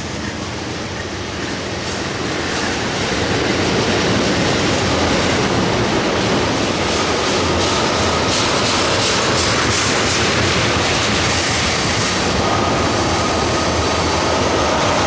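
Freight train of tank cars rolling past, steady heavy wheel-on-rail noise with clicking as the wheels cross rail joints. It grows louder over the first few seconds. A faint high wheel squeal comes in near the end.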